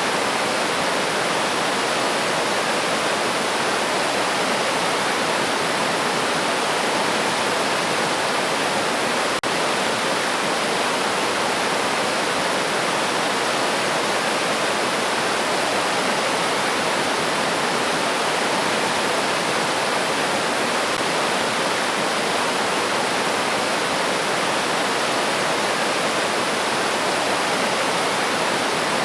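A river stream flowing steadily, an unbroken rush of water with no birdsong standing out. There is a momentary break in the sound about nine seconds in.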